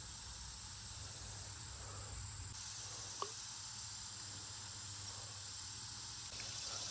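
Faint steady outdoor insect chorus, an even high hiss over a low rumble, with one brief faint chirp about three seconds in.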